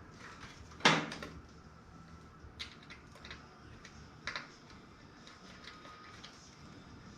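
Small screws and tools clicking against the thin sheet-metal toaster oven case. One loud ringing clank comes about a second in, followed by a few lighter clicks and knocks.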